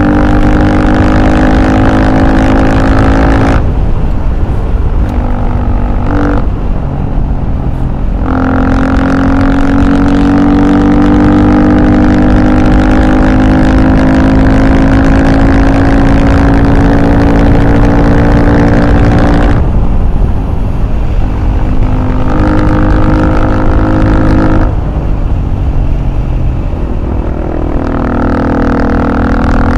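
Vehicle engine running under way, holding steady revs for long stretches and dropping off three times, as when the throttle is closed or a gear is changed.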